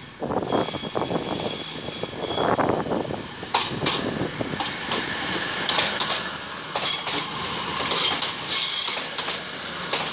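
CrossCountry Class 220 Voyager diesel multiple unit running past close by, its underfloor diesel engines and wheels giving a steady rumble. A high-pitched wheel squeal comes and goes twice, with a few sharp clicks from the track in between.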